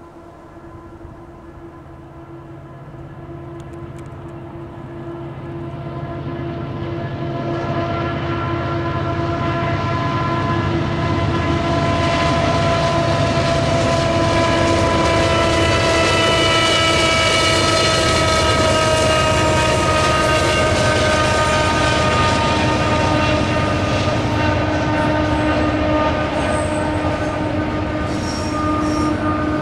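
Norfolk Southern EMD SD70ACe and GE Dash 9 diesel locomotives approaching and passing on a heavy freight, engines howling over the rumble of wheels. The sound builds for about ten seconds, and the howling tones drop in pitch as the units go by. Double-stack container cars then roll past.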